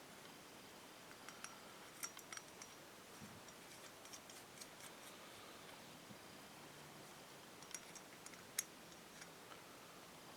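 Faint, irregular clicks and light taps of small metal carburetor parts and hand tools being handled during disassembly, in two small clusters with the sharpest click about eight and a half seconds in.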